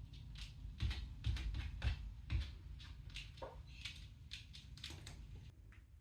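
Parakeet eating: irregular dry clicks and cracks of the beak working seed, several a second, with one short falling squeak about halfway through.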